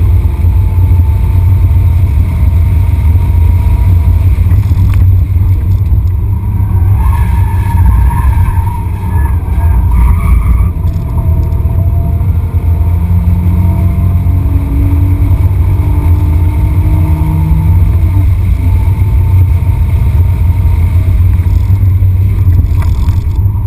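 BMW 330i's straight-six running hard at track speed, heard inside the cabin under a heavy, steady rumble of road and wind noise. The engine note rises and falls with the throttle.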